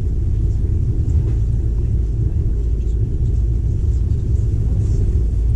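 Passenger train running at speed, a steady low rumble.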